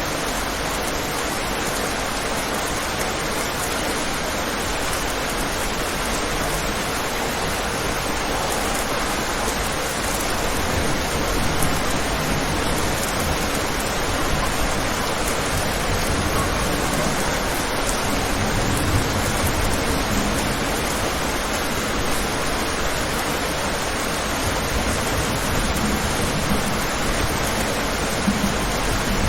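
Steady rain falling on a window, an even hiss, with a low rumble growing in the last few seconds.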